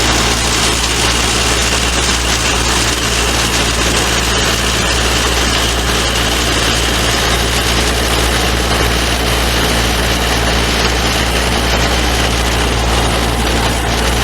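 An engine running steadily at idle with a constant low hum.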